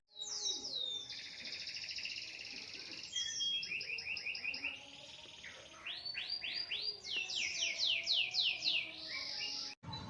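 A songbird chirping: series of quick downward-sweeping whistles and fast trills, high-pitched, starting and stopping abruptly with cuts in the audio.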